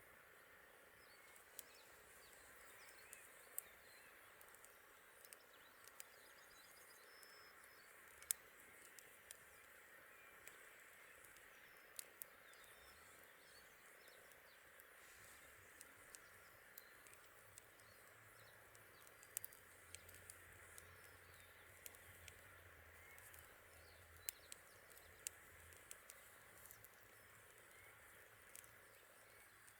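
Wood campfire crackling: scattered, irregular sharp pops over a faint steady hiss.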